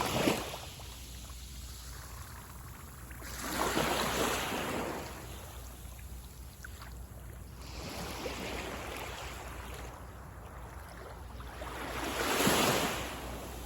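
Small sea waves breaking on a beach shore, one about every four seconds, each a wash that swells up and fades away.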